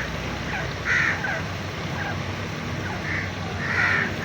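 Grey francolin (teetar) giving a series of short, harsh calls about once a second, the loudest near the end.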